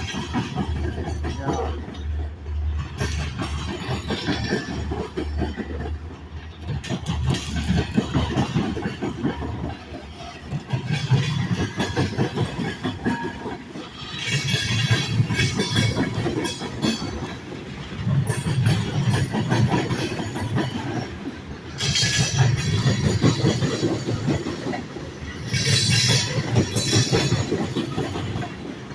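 Railroad cars of a passing train rolling by close at hand, their wheels clicking steadily over the rail joints, with a few louder, sharper stretches along the way.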